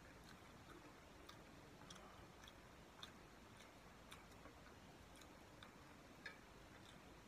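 Faint chewing of a mouthful of chicken biryani: soft, sharp mouth clicks about twice a second over a low hiss.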